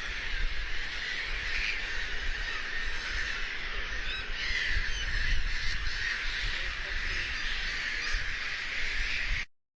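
A dense chorus of many birds calling at once, over a low rumble; it cuts off suddenly near the end.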